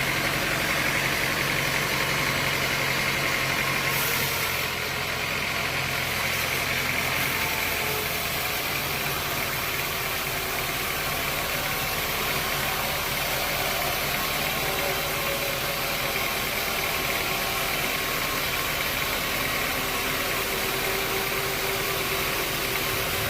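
An engine running steadily, a low hum under a constant hiss. The level dips a little about four seconds in, and part of the low hum falls away a few seconds later.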